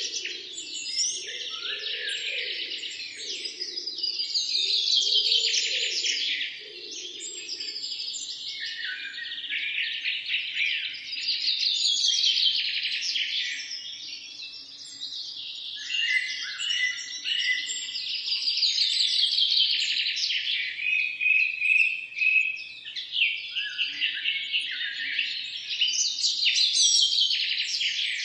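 A dawn chorus of many songbirds singing at once: fast trilled phrases that fall in pitch, overlapping continuously, with a fainter low-pitched call underneath in the first several seconds.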